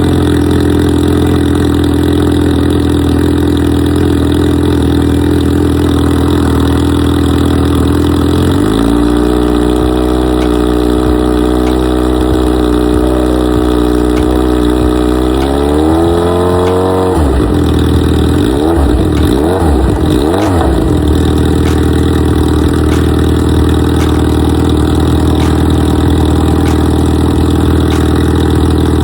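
Yamaha FZ6R inline-four motorcycle engine idling steadily; its pitch shifts about a third of the way in, then it climbs and is revved up and down several times before settling back to a steady idle.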